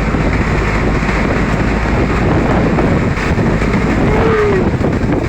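Banka outrigger boat under way in high winds: its engine running steadily under heavy wind buffeting on the microphone.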